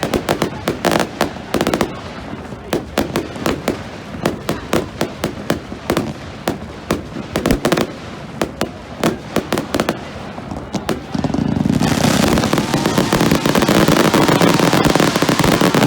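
Fireworks going off: a rapid string of sharp bangs and pops, then, about twelve seconds in, a dense continuous crackling barrage that is louder.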